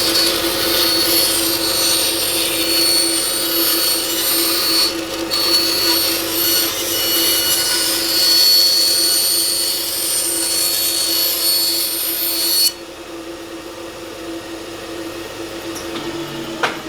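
Bandsaw cutting freehand through a workpiece: a loud hissing, high whine of the blade in the cut over the steady hum of the running saw, with a short dip about five seconds in. The cut ends about twelve and a half seconds in, and the saw keeps running unloaded, quieter.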